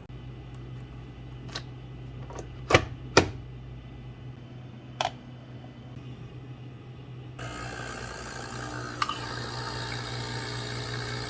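A few sharp clicks and taps, the loudest two close together about three seconds in, over a low steady hum; about seven seconds in a steady hiss of heavy rain sets in abruptly.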